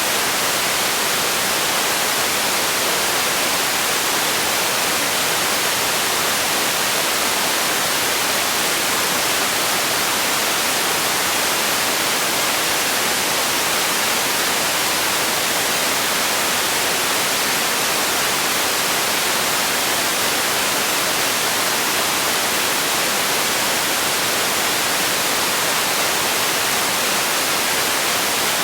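Steady white noise: an even, unbroken hiss, strongest in the high range, with no change in level or character.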